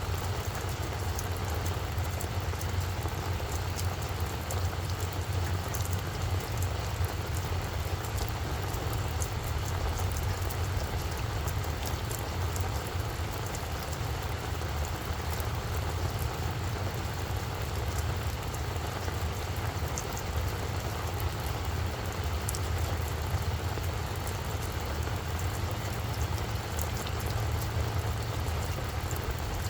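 Steady rain falling on a flower bed, with scattered sharp ticks of individual drops, over a constant low rumble.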